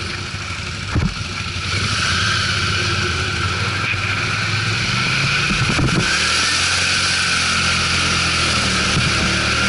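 ATV engine running steadily under way; it gets a little louder about a second and a half in, then holds an even pitch.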